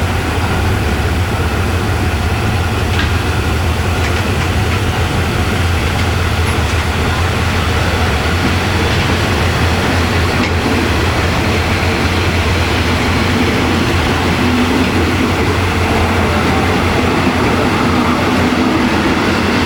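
Diesel locomotive of a Thai local train running steadily, a loud, even, low drone with no change in pitch.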